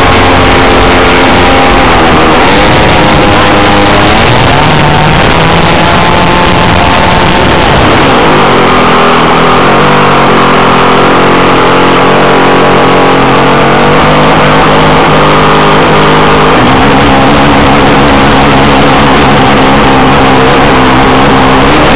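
The JBA 75 engine of an Extra 300S model aerobatic plane running loud and close, its note rising and falling several times as the throttle changes.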